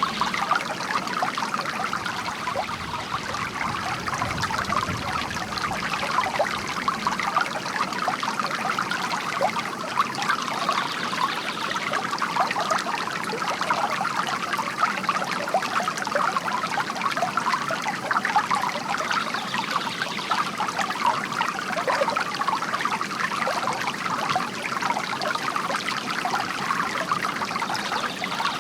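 Bamboo water fountain trickling and splashing steadily.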